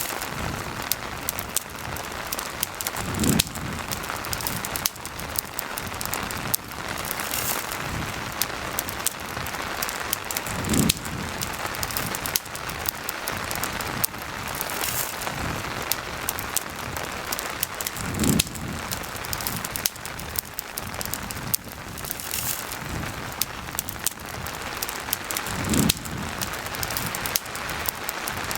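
Steady rain falling, with the small sharp crackles of a campfire scattered through it. A short low thump comes back at even spacing about every seven and a half seconds, four times.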